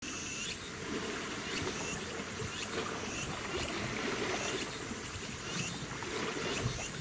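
Steady rumbling wash of a vessel moving on the water, with a high-pitched buzz that pulses irregularly about once a second over it.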